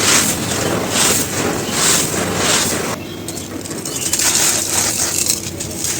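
Dry, gritty cones being crumbled and crushed, a crunching grind pulsing about twice a second. About halfway through it changes to quieter, sparser crackling.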